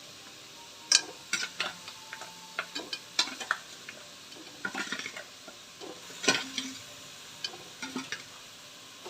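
Spatula scraping and knocking in a frying pan as cooked meat is stirred into frying onion paste, with a light sizzle underneath. The scrapes and knocks come irregularly, loudest about a second in and again near six seconds in.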